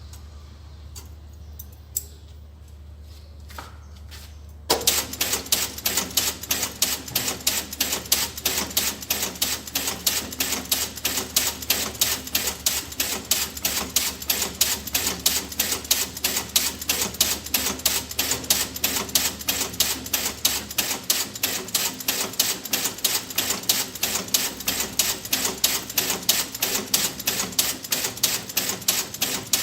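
A clicking toy going off in rapid, evenly spaced clicks, about five to six a second, that start suddenly about five seconds in and then keep up a steady rhythm. Before that there are only a few scattered clicks.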